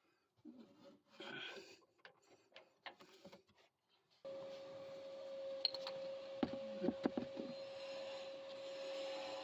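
Hand tools working on suspension nuts: light knocks and rattles of wrench and socket, then a steady hum starts about four seconds in, with a few sharp clicks near the middle of it.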